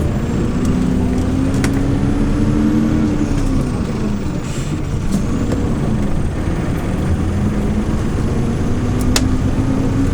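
Hyundai New Super Aero City CNG city bus engine pulling under acceleration, its pitch climbing, then dropping away about three and a half seconds in. A short hiss follows, and the engine climbs again from about six seconds in.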